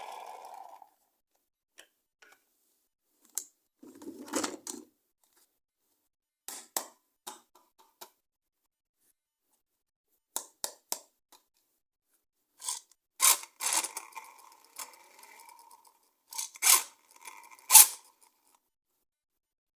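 Plastic toys and packaging being handled: scattered clicks, taps and short rustles with pauses between them, busier and louder in the second half, where a faint steady tone runs under the clicks for a few seconds.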